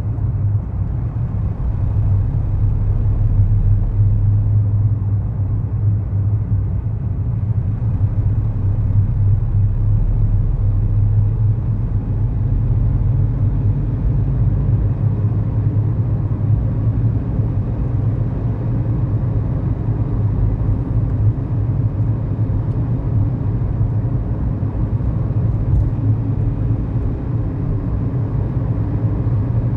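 Cabin sound of a 2011 Kia Morning's 999 cc four-cylinder SOHC petrol engine running at a steady pitch while the car drives, under road and tyre noise.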